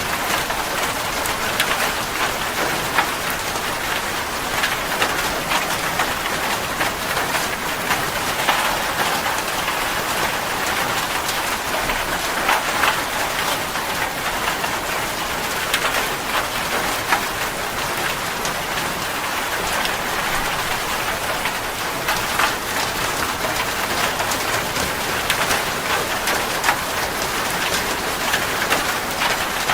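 Steady rain falling on a surface, a dense hiss with many individual drops pattering through it.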